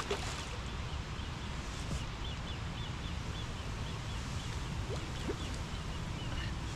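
A small bird chirping in a run of short, evenly spaced notes, pausing and starting again near the end, over a steady low rumble of outdoor background noise.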